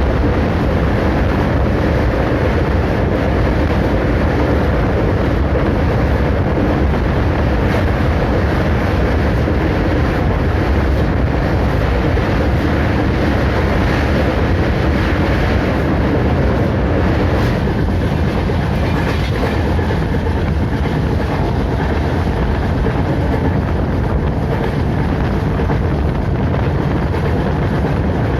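Train running on the line, a steady rumble of wheels on rails.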